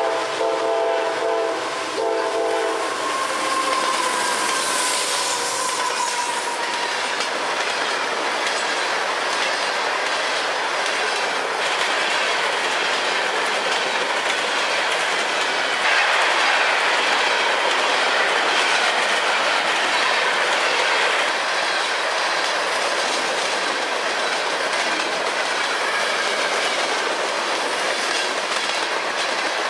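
Freight train passing: a locomotive air horn sounds a chord for about three seconds at the start. Then comes the steady rumble and clickety-clack of freight cars rolling by.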